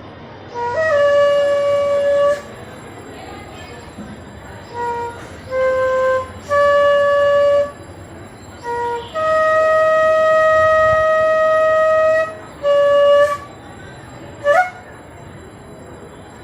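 Flute playing a slow run of separate notes: several held for one to three seconds, with short notes between them. The longest comes near the middle, and the run ends on a short upward slide.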